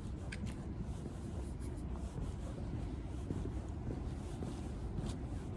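Steady low outdoor rumble with a few faint sharp clicks, two just after the start and one near the end.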